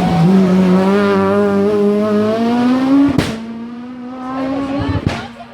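Rally car engine running hard at full throttle, its note rising steadily. About three seconds in a sharp bang comes as the pitch drops back, and a second bang comes near the end as the sound fades away.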